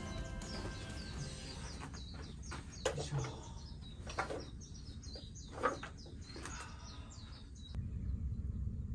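Small birds chirping and calling in quick, short notes over a low rumble of wind on the microphone, with a few louder sharp sounds about three and five and a half seconds in.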